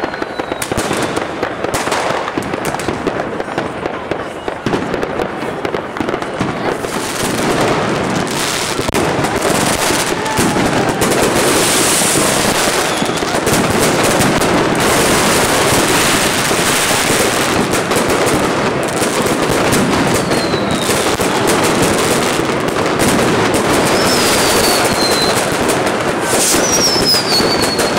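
Fireworks going off continuously: rockets and firecrackers crackling and popping in a dense barrage that grows louder about a third of the way in. Three whistling rockets glide down in pitch in the second half, the last near the end.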